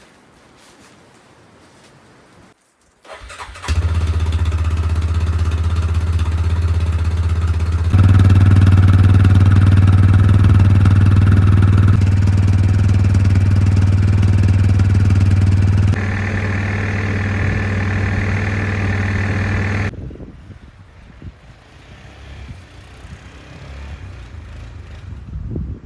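Old snowmobile engine running loud and steady for about sixteen seconds. It comes in abruptly a few seconds in, shifts in pitch and level in sudden steps every few seconds, then drops away to quiet.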